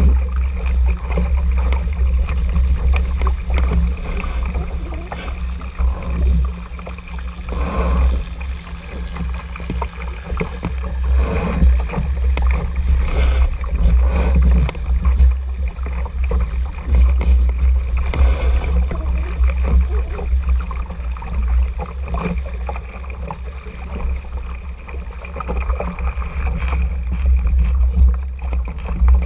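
Water rushing and slapping against the hull of an RS Tera sailing dinghy, under a steady low wind rumble on the action camera's microphone, with a few sharper splashes.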